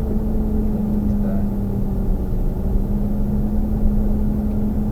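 Car engine and road noise heard from inside the moving car's cabin: a steady low drone over a rumble, holding an even speed.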